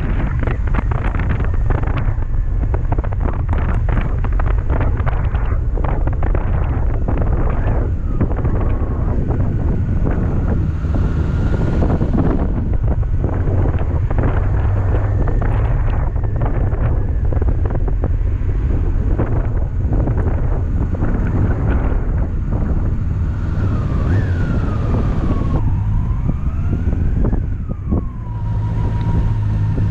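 Honda CB400SF inline-four motorcycle engine under way, heavily buffeted by wind noise on the microphone. In the second half the engine pitch rises and falls repeatedly as the rider works the throttle through the gears.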